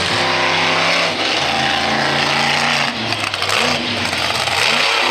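Monster truck engine revving, its pitch stepping up and down, dipping about three seconds in and climbing again near the end.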